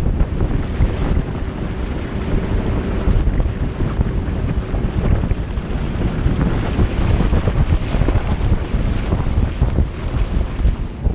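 Wind buffeting the microphone on a boat at sea, with a steady low rumble underneath and a faint steady hum during the first few seconds.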